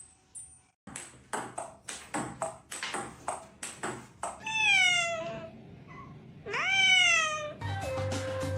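Domestic cat meowing twice: a falling meow about halfway through, then a louder meow that rises and falls. Before the meows come a run of sharp clicks or taps. Near the end a steady, even tone starts.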